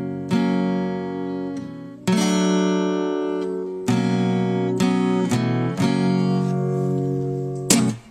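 Acoustic guitar strumming chords that ring on between strokes. The strums come about every two seconds at first, then quicker. A sharp final strum near the end is cut off short.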